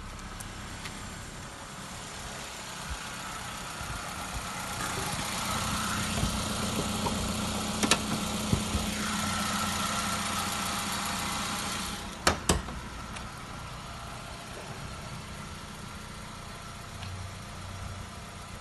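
Suzuki SX4's four-cylinder petrol engine idling steadily, growing louder for several seconds in the middle, with a few sharp clicks about eight seconds in and two more a little after twelve seconds.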